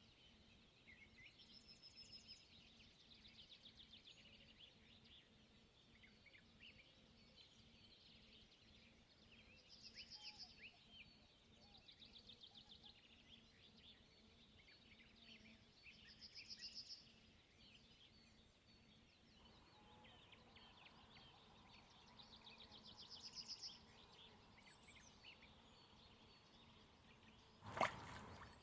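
Faint songbirds singing: trilled phrases recurring every few seconds among scattered short chirps. A single sharp knock near the end.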